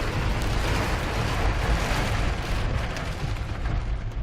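Heavy thunderstorm rain and wind: a steady, dense hiss over a rough low rumble.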